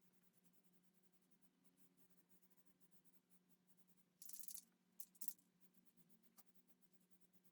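Near silence with a faint steady hum, broken about four seconds in by a few brief scratching sounds, the longest lasting under half a second.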